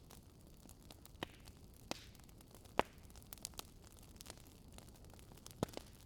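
Wood fire burning in a fireplace: scattered sharp crackles and pops of the burning logs over a soft hiss, the loudest pops nearly three seconds in and again near the end.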